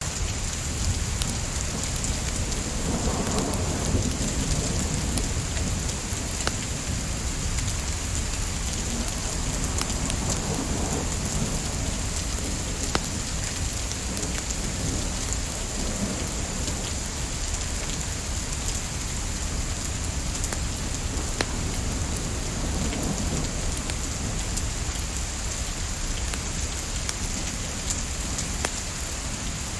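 Steady rain with a low, even rumble underneath and a few soft swells, broken by scattered sharp crackles of burning wood from a log fire.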